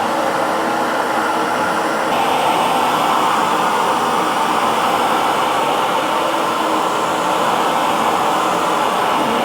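Hair dryer running steadily, a constant whooshing blower noise with a faint motor hum. Its tone shifts slightly about two seconds in.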